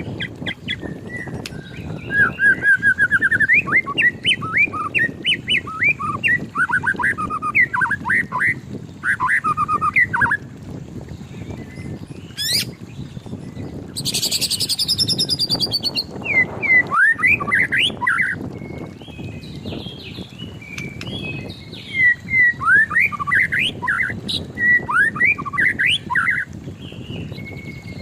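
White-rumped shama singing: bursts of rapid, varied whistled notes and sweeps, broken by short pauses, with a brief very high-pitched trilling passage about halfway through.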